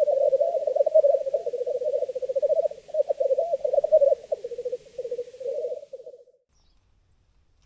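Male black grouse giving their bubbling lek song, a continuous low, cooing warble made of rapid pulses. It cuts off suddenly about six seconds in.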